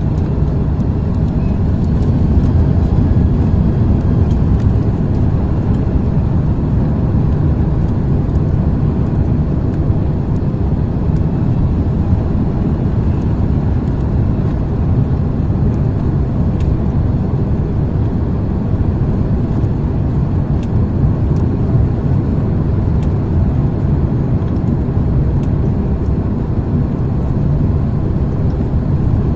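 Airbus A330-300 cabin noise: a steady, loud low rumble of the engines and airflow, heard from inside the passenger cabin.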